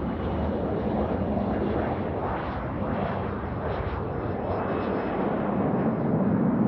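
Airliner engines at takeoff power during the takeoff run: a steady rushing noise that grows louder near the end.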